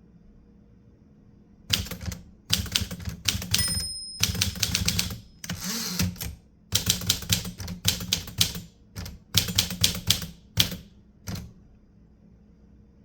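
Typewriter keys being struck in quick runs of clicks, starting about two seconds in and stopping near the end, with a brief high ring about three and a half seconds in.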